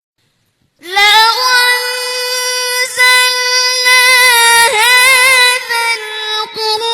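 A high solo voice singing long held notes with a slight wavering in pitch, starting just under a second in.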